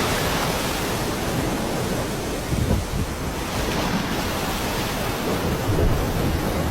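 Steady rushing noise of wind and moving water, with wind rumbling on the microphone.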